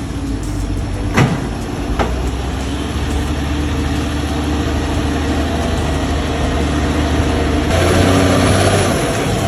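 Heavy truck engine running steadily and slowly growing louder, with two sharp clicks about one and two seconds in.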